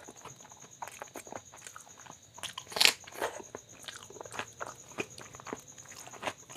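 Close-miked eating: a person chewing a mouthful of rice with mashed bharta, with irregular wet mouth clicks and smacks and one louder bite about three seconds in.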